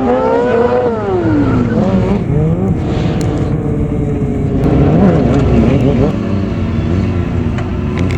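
Stunt motorcycle engine revving up and down several times over a steady rumble: the pitch climbs in the first second, falls away by about two seconds, and swings up and down again later.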